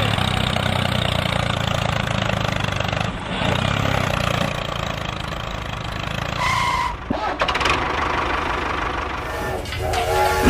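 Small engine-like motor running steadily with a low hum, dipping briefly twice, with a short high beep about six and a half seconds in.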